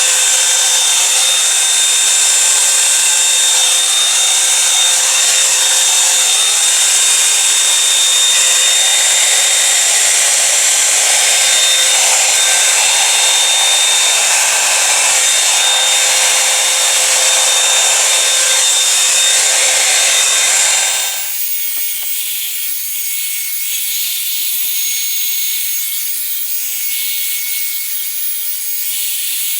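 Revlon One-Step hair dryer and volumiser blowing air through damp hair: a steady, loud rush of air with a motor whine. About 21 seconds in it drops suddenly to a quieter rush with a different, higher whine.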